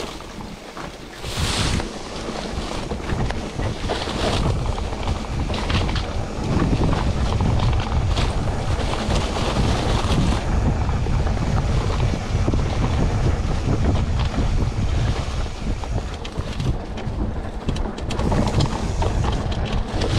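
Wind buffeting the microphone while riding a mountain bike on a dirt trail. The low rumble grows stronger about six seconds in.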